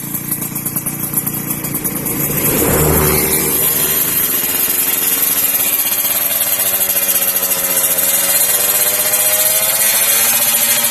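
Kawasaki Ninja 150 two-stroke single-cylinder engine running through an aftermarket stainless steel exhaust, blipped once about three seconds in, then running steadily.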